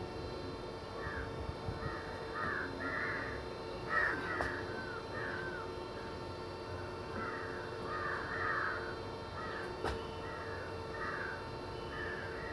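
Birds calling: short, arching calls repeated in loose bunches of two to four, over a faint steady hum.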